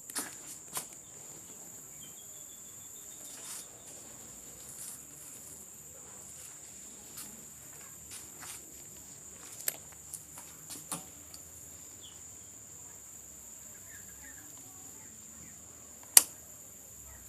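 Quiet outdoor ambience with a steady high-pitched insect drone, like crickets, and a few scattered light clicks. There is one sharp click about a second before the end. No engine is running.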